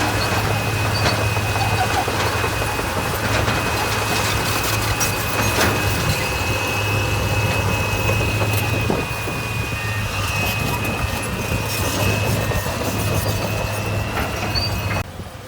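Heavy construction machine's diesel engine running steadily under work, with a steady high whine over the low engine hum and scattered clicks and knocks; the sound drops off suddenly near the end.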